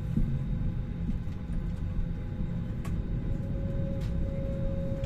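Airliner cabin noise: a steady low rumble from the jet engines and airflow, with a thin steady whine that grows stronger about three seconds in.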